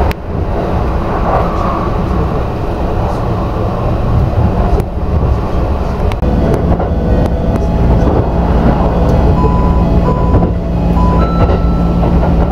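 Kintetsu Vista Car limited express running, heard from inside its upper-deck cabin as a steady rumble of wheels and running gear. A steady low hum sets in about halfway, and a few short beeping tones sound near the end.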